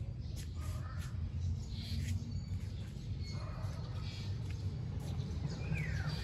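Outdoor ambience of scattered small bird chirps over a steady low rumble, with one falling whistle-like call near the end.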